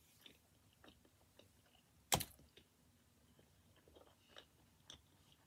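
Faint chewing of a mouthful of pizza, with small mouth clicks throughout and one sharp click about two seconds in.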